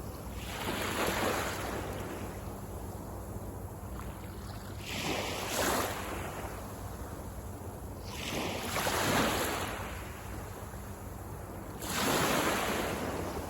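Waves breaking on a sandy beach. Four rushes of surf, one every three to four seconds, each swelling and then fading back.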